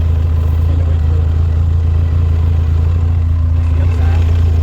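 ATV engine running at a steady speed, a constant low drone.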